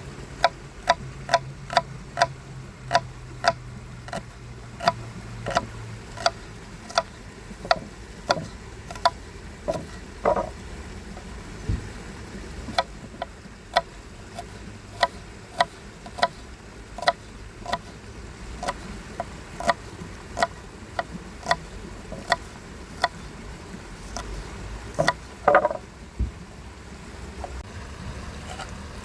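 A long series of sharp clicks or taps, roughly one or two a second and slightly uneven, over a steady background hiss.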